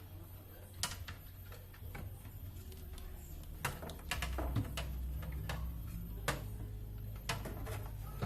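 Scattered small clicks and knocks of refrigerator light parts being handled and refitted, over a low steady hum.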